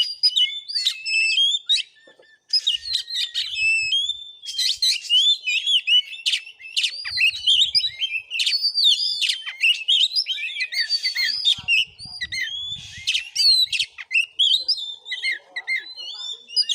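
Oriental magpie-robin (kacer) singing a fast, varied song of whistles, chirps and rattling notes, nearly continuous apart from a short pause about two seconds in.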